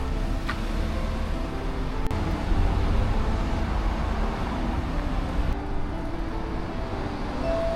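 Steady rumble of city street traffic, with background music of short melodic notes playing faintly over it.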